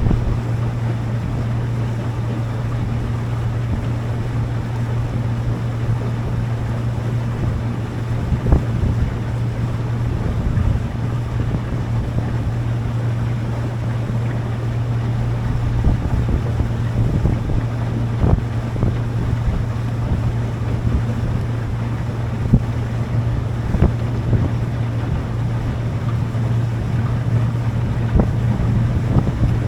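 Motorboat engine running at a steady speed, a constant low hum, with wind buffeting the microphone and a few short thumps.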